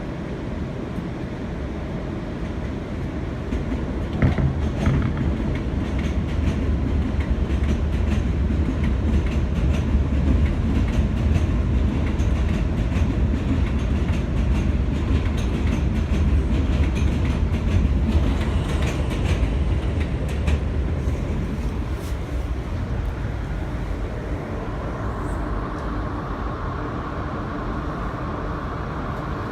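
Inside an R160B subway car in motion: a steady low rumble with the clicking and clacking of wheels over the rails, loudest in the middle. A steady higher whine comes in near the end.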